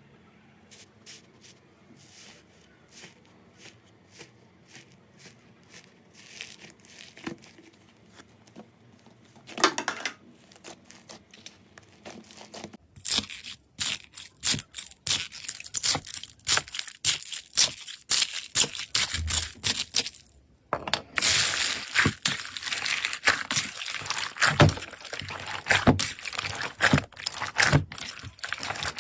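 Slime being handled, squeezed and pulled by hand, giving off sharp crackles and pops. The crackles are sparse and quieter at first, turn dense and loud about halfway through, pause briefly, then carry on dense.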